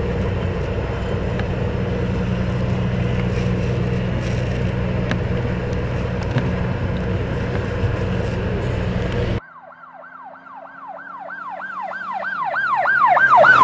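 A steady low engine rumble runs for the first two-thirds and ends at an abrupt cut. An emergency vehicle siren then sounds in a fast yelp, rising and falling about three times a second and growing louder as it approaches, loudest right at the end.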